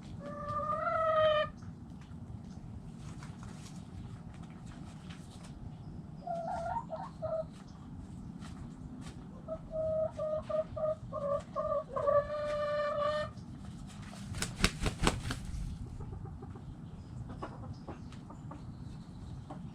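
Backyard chickens calling: a long rising call at the start, a few short calls, then a run of quick clucks that ends in a long drawn-out call. A brief burst of sharp clatter comes about 15 seconds in, over a steady low background rumble.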